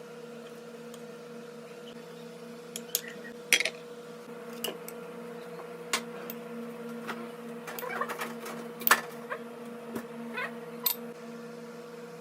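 A steady machine hum with irregular sharp clicks and clinks on top, the loudest about three and a half and nine seconds in.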